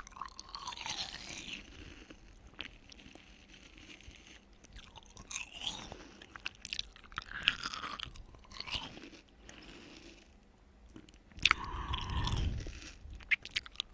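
Close-miked eating of watermelon: wet, crunchy bites and chewing that come in irregular clusters, loudest about twelve seconds in.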